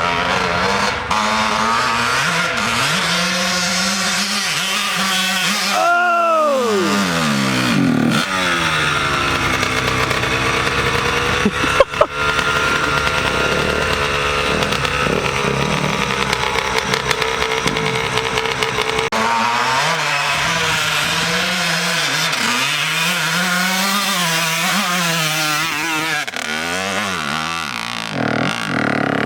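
Dirt bike engine revving up and dropping back repeatedly as the rider works through a rocky trail section, with one sharp knock about twelve seconds in.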